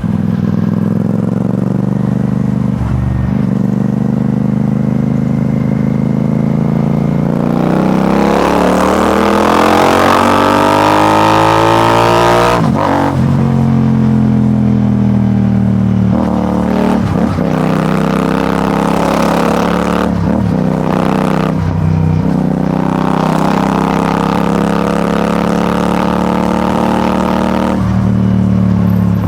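Royal Enfield Shotgun 650's parallel-twin engine under way: it runs steadily, then revs up in a long rising pull about eight seconds in. The note breaks sharply at an upshift, and several more short breaks and dips follow as it shifts and eases off.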